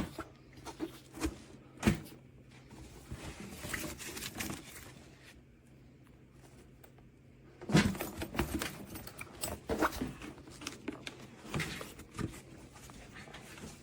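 Scattered clicks, knocks and rustles, bunched at the start and again in the second half, over a faint steady low hum.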